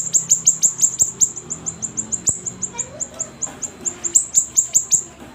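A siri-siri songbird singing in full voice: a rapid, unbroken run of high, sharply falling chirps, about seven a second, easing briefly a little past the middle before picking up again.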